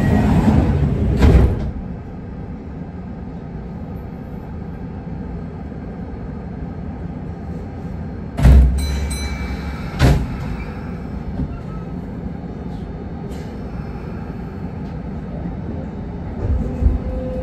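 Kintetsu 1620 series commuter train standing at a platform: a loud stretch ends with the doors sliding shut and a knock about a second and a half in. Then a steady low hum from the stopped train, broken by a few short knocks, the loudest about halfway. Near the end a steady tone starts as the train gets ready to move off.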